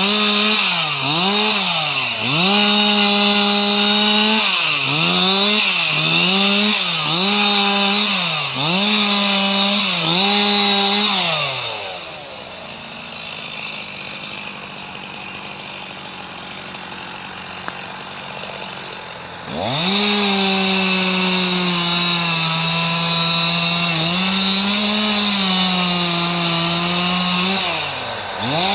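Two-stroke chainsaw running at high revs, its pitch sagging and recovering again and again as it cuts wood. About twelve seconds in it drops back to idle for some seven seconds, then revs up sharply and carries on cutting.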